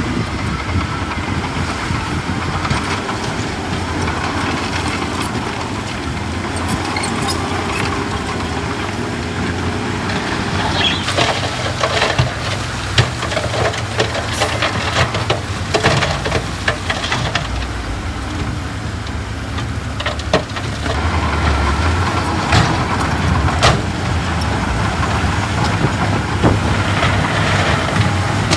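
Heavy diesel earthmoving machinery running steadily, with many sharp metallic clanks and rattles, thickest in the middle and again near the end.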